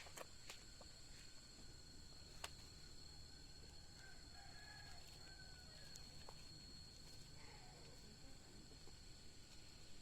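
Quiet farmyard ambience: a chicken clucking faintly for a moment about four seconds in, over a steady high insect drone and a few scattered clicks.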